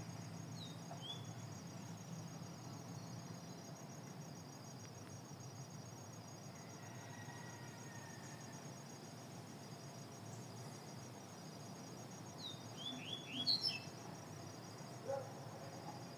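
A small songbird chirping: a couple of faint short falling chirps near the start, then a quick burst of sharp falling chirps about 13 seconds in. A faint steady insect trill runs underneath.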